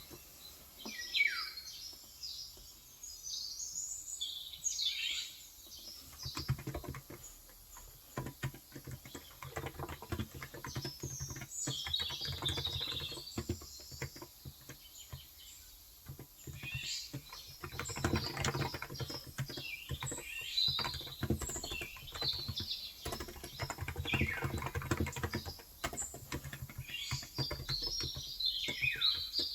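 Typing on a Cox Endeavor electro-capacitive (topre-style) tenkeyless keyboard with light 35 g switches: a dense run of soft keystrokes. Small birds chirp over it in several bursts of quick, high, falling notes.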